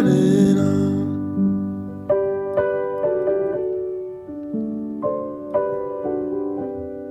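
Background music: slow solo piano chords, struck one after another and slowly fading, after a held note dies away in the first second.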